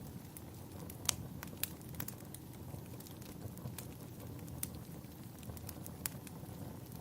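Wood fire burning in a fireplace: a steady low rumble of flames with scattered sharp crackles and pops, the loudest pop about a second in.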